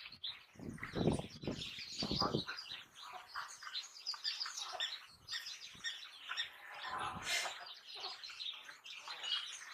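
Birds chirping and twittering in the background, with a few short bursts of noise about one, two and seven seconds in.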